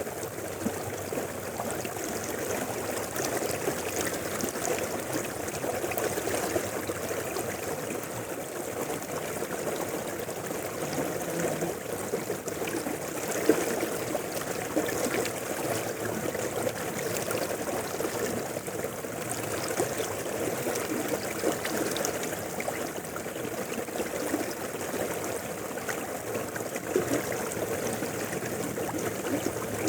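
A river flowing over rocks: a steady rush of water with constant small splashes and gurgles.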